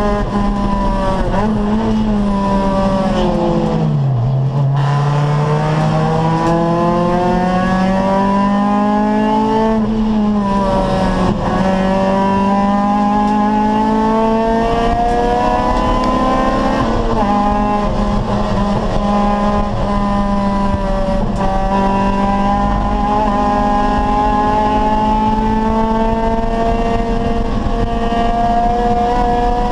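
Acura Integra Type R race car's four-cylinder VTEC engine run hard around a track. Its pitch falls steeply about four seconds in as it comes off the throttle, then climbs again through the revs, with short drops at each gear change.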